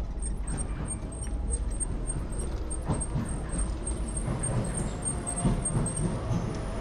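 Docklands Light Railway train rumbling steadily inside the carriage, with a couple of sharp knocks and clunks from the running gear.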